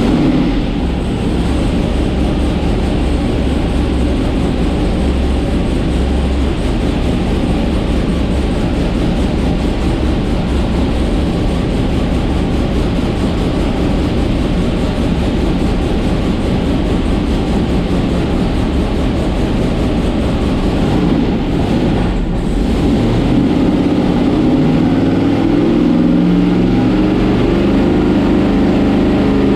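Twin-turbo LS V8 drag car engine running on a chassis dyno: a loud, steady, noisy run for about twenty seconds, then a short dip, after which the engine note turns clearer and its pitch climbs slowly near the end.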